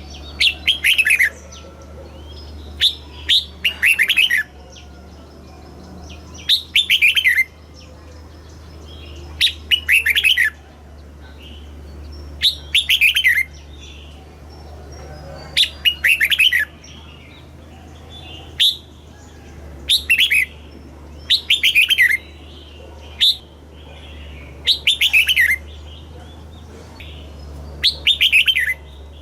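Red-whiskered bulbul singing: short bubbling phrases of quick notes, each falling in pitch, repeated about every two to three seconds, over a steady low hum.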